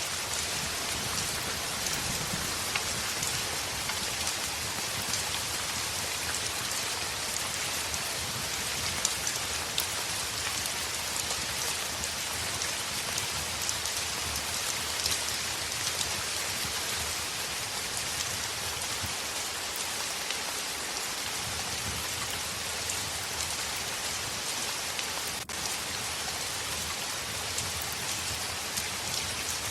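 Heavy rain falling steadily on a window: a dense, even hiss flecked with fine drop ticks and a soft low rumble underneath.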